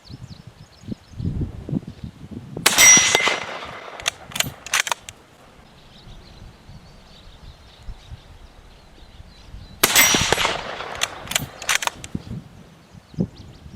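Two shots from a bolt-action hunting rifle about seven seconds apart, each followed a second or so later by a few sharp metallic clicks as the bolt is cycled. Gusty wind buffets the microphone in between.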